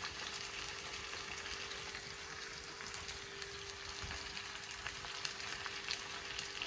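Baked beans and saltfish sizzling in a pan on the stove: a steady crackle dotted with small pops. Under it runs a faint steady hum.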